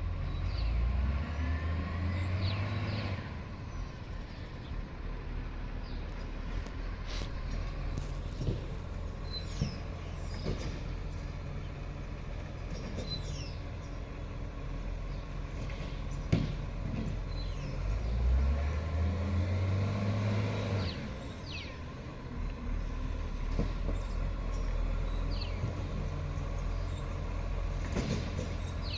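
Side-loader garbage truck's diesel engine running, with two swells in engine speed about 18 seconds apart, the kind of revving that drives the hydraulic bin-lifting arm. A sharp knock in the middle.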